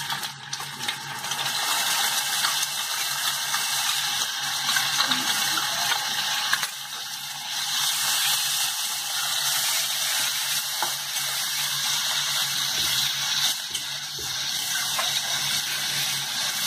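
Onion, ginger and garlic pastes frying in hot oil in a steel wok, a steady sizzle with a metal spatula scraping and stirring against the pan.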